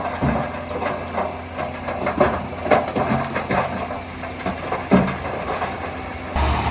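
Diesel engine of a bulldozer running steadily, with irregular metallic clanks and knocks over its hum. About six seconds in it gives way abruptly to a louder, steadier drone.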